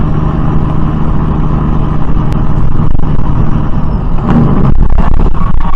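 A motor vehicle running, with a loud, steady low rumble and an engine hum. The sound turns rougher and more crackly about four seconds in.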